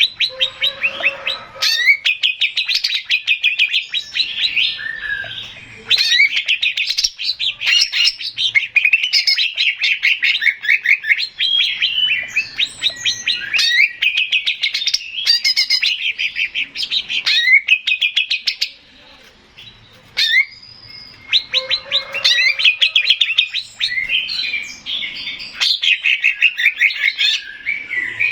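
Male cucak ijo (green leafbird) singing a loud, rapid, chattering song of fast trilled phrases, with short pauses between phrases and a longer break about two-thirds of the way through.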